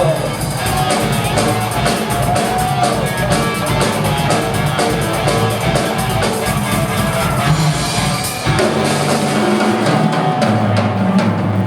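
Live rock band of drum kit, electric guitars and bass playing an instrumental ending. The drums drive hard until about eight seconds in, then drop out, leaving a held chord ringing.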